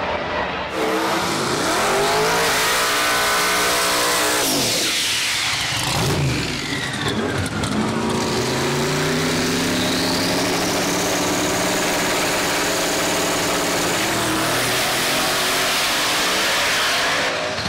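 Drag-racing engines at full throttle during a pass, rising in pitch as they accelerate. There is a sharp drop in pitch about four to five seconds in, then a long climb with a high whine over it.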